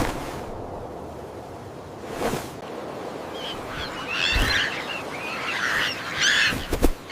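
Bird chirps and calls, in clusters over the second half, over a noisy outdoor background, with a few brief whooshes or thumps.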